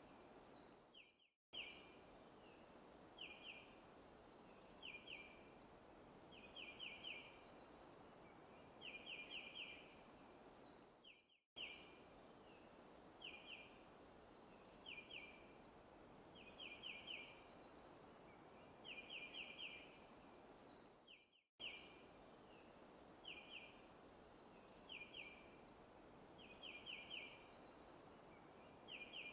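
Faint birds chirping: short runs of a few quick, high notes repeating every second or two over a steady background hiss. The sound cuts out for a split second about every ten seconds, where a short recording loops.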